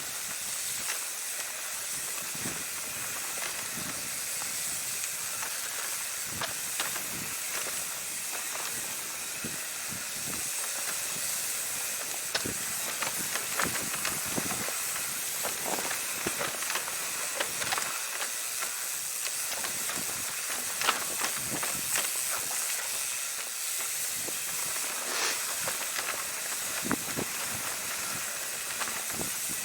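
Steady hiss of tyres and wind with many scattered clicks and rattles, as of a mountain bike rolling along a rough dirt trail.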